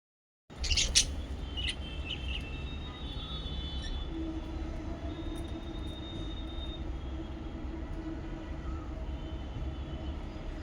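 Lovebirds chirping: a loud burst of sharp high calls about a second in, then a few shorter chirps and a thin high note, over a steady low rumble with a hum.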